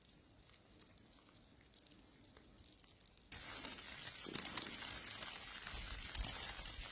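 Faint background noise, then about three seconds in an abrupt cut to a steady crackling, sizzling hiss.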